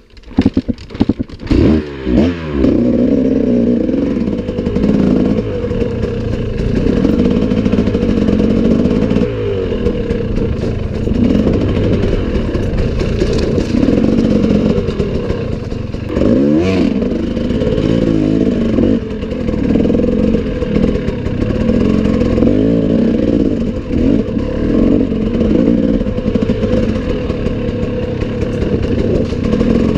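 Enduro motorcycle engine running hard. It comes up loud just after the start with quick revs rising and falling in pitch as the throttle is worked, then runs on with uneven throttle and another short burst of revs about halfway through.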